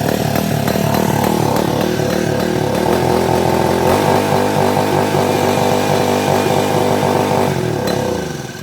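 Gasoline engine of a Rippa Mule Trac mini excavator idling unevenly, spitting and sputtering as if running out of fuel despite a full tank. The owner traced it to debris in the fuel tank and air building up in the fuel line. The sound fades out near the end.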